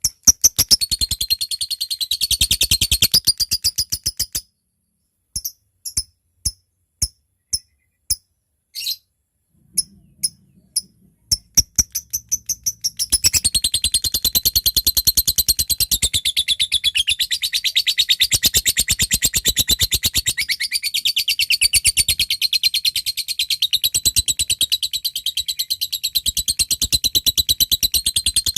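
Lovebird calling: a rapid chattering burst, then single sharp ticks about two a second (the 'ngetik' call). The ticks speed up about twelve seconds in and run into a long unbroken rapid chatter, the long 'ngekek' of a bird in full song.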